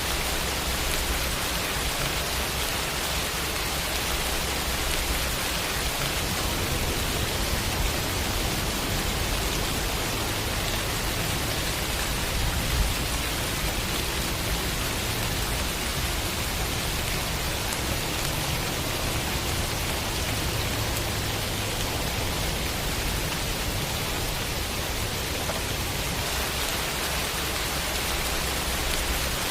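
Steady rain falling: an even hiss with a low rumble beneath it and one brief louder tick about halfway through.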